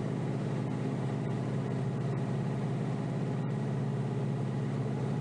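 Kioti DK5320SE tractor's diesel engine running steadily, heard from inside the cab.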